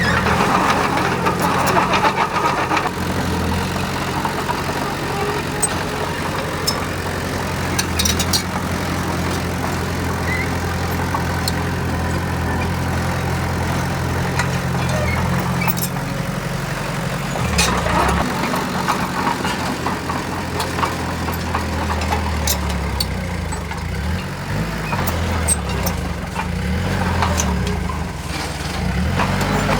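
Heavy diesel earthmoving machine's engine running steadily, its pitch wavering and shifting in the last third as the load changes, with scattered sharp clicks and knocks over it.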